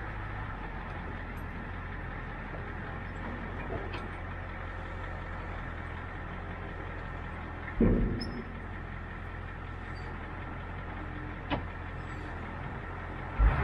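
International 4700 hook lift truck's diesel engine idling steadily, its flex-pipe exhaust leak repaired. A thump about 8 seconds in and another near the end.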